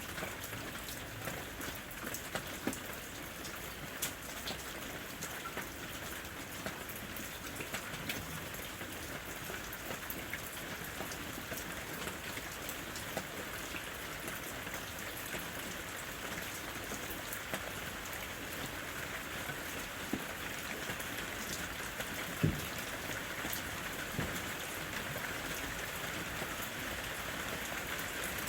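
Steady rain falling: a constant hiss with many separate drops ticking close by, and one louder drop striking about three-quarters of the way in.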